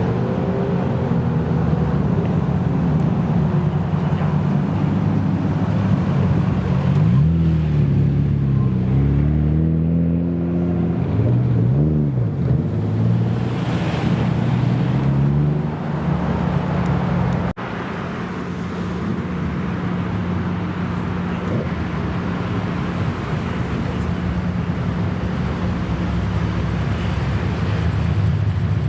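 Car engine idling with a low, steady rumble. It is blipped several times about a third of the way in, the pitch rising and falling with each rev, then settles back to idle.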